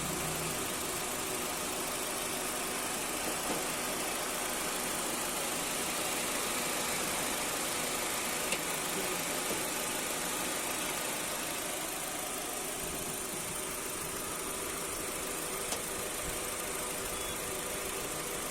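Steady mechanical hum and hiss, with a few faint clicks.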